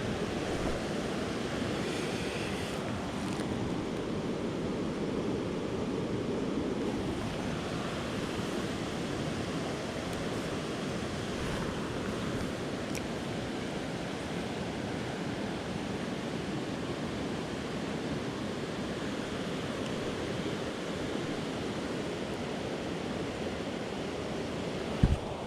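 Creek water running in a steady rush. A single brief low thump comes near the end.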